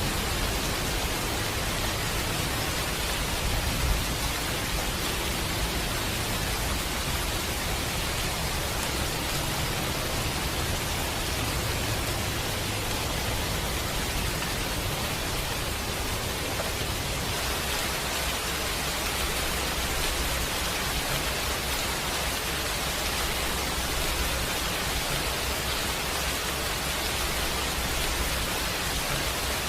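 Steady rain falling in an even hiss, with a low rumble underneath and one sharp pop about four seconds in.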